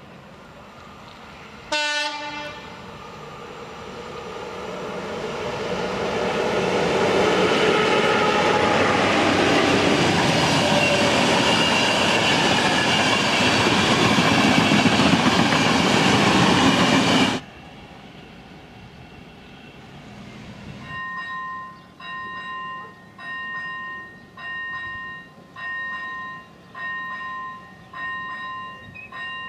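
A locomotive sounds one short horn blast, then a locomotive-hauled passenger train runs past close by, growing louder until it cuts off suddenly about two-thirds of the way through. After a pause a level crossing warning bell starts ringing, a two-tone ring repeating a little more than once a second.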